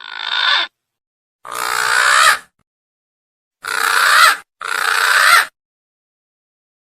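Green pigeon (punai) calls from a lure recording: four harsh, rasping calls under a second each, the last two close together.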